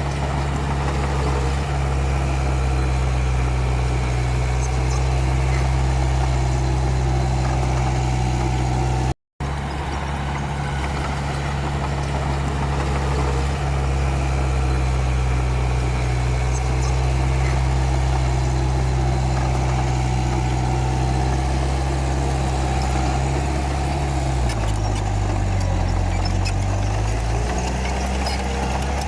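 Komatsu D31P crawler bulldozer's diesel engine running steadily, with a short break about nine seconds in. Near the end the engine note sags lower for a couple of seconds, then comes back up.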